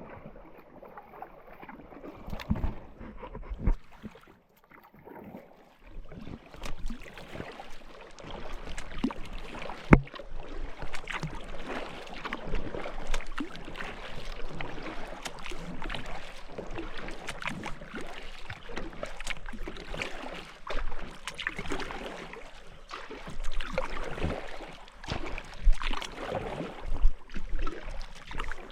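Kayak paddle strokes in the water: repeated splashing and dripping, with a single sharp knock about ten seconds in.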